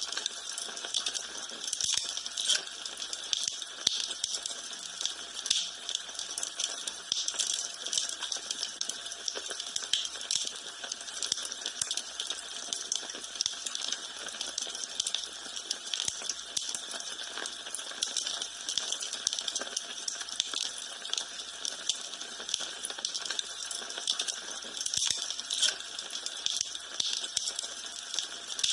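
Wood fire in a fireplace crackling, with a steady hiss and a dense run of small sharp pops and snaps.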